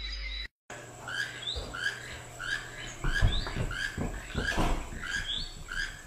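A bird chirping over and over: short rising chirps about twice a second, starting after a brief dropout about half a second in. A few low thumps come through the middle.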